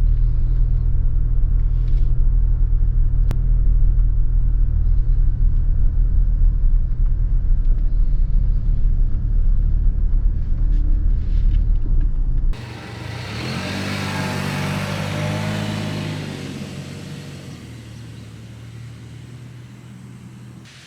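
Steady low road rumble of a car driving, heard from inside, with a single sharp click about three seconds in. About two-thirds of the way through it cuts abruptly to a vehicle heard from outside: its engine note rises, then falls away as it fades off.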